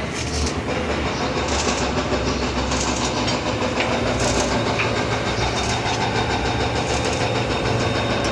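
An engine running steadily with a low, even hum and a few faint knocks.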